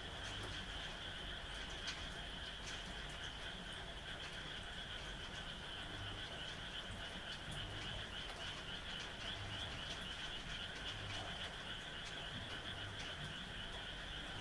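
Chorus of frogs calling steadily, a dense high trill with occasional low croaks, over light rain with scattered drops ticking.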